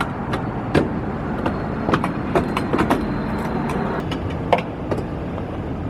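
A car driving, with steady low road rumble and irregular sharp clicks and knocks over it.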